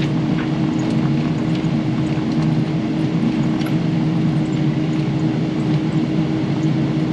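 Diesel engine of a Kubota KX080 excavator running steadily under working load, with a constant low hum and a steady tone through it.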